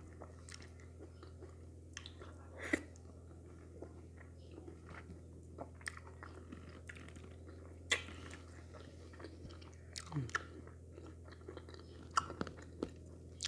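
Close-miked chewing and biting of wheat fufu and okra soup, with short wet mouth smacks and clicks at irregular intervals over a steady low hum.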